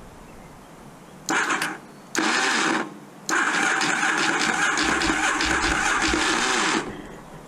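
Electric starter of a 1982 Yamaha Virago 750 V-twin cranking in three presses: two short ones, then a long steady one of about three and a half seconds, and the engine does not catch. This is the starting fault common to 1980s Virago 750s, traced to a slipping starter clutch.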